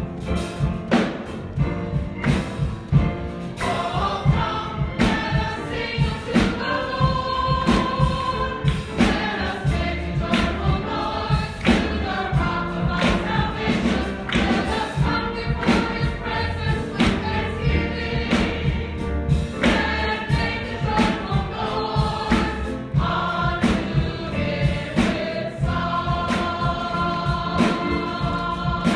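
Church congregation singing a gospel song together, over a steady beat and heavy bass accompaniment.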